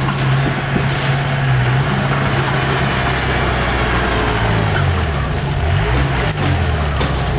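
Heavy diesel engine of earthmoving machinery running. It is steady at first; from about four and a half seconds in its pitch rises and falls repeatedly as the engine is revved or loaded.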